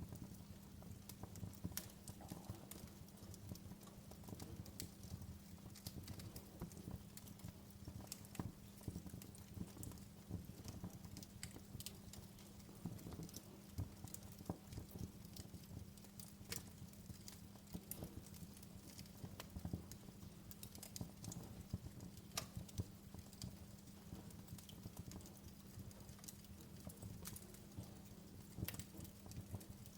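Wood fire crackling in a fireplace: faint, irregular sharp pops and snaps over a steady low hum.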